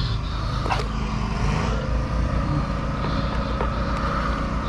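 Steady drone of an engine running in the background, with a constant low rumble and a faint held tone.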